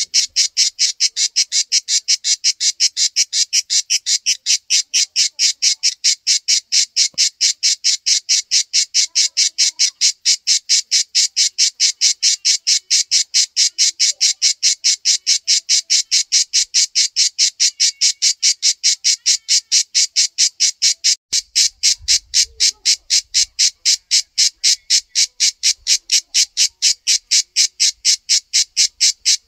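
Male cicada calling: a loud, high-pitched buzz made of rapid, evenly spaced pulses that keeps on steadily.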